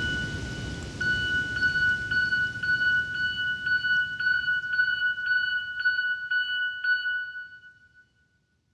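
A high bell-like note re-struck about twice a second over the fading rumble and hiss of a thunderstorm recording. Both die away to silence about eight seconds in.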